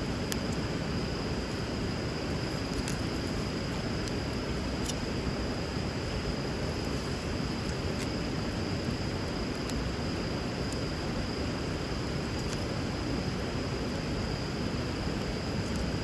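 Steady rushing of flowing river water with a wood fire burning, sharp crackles and pops sounding every second or so.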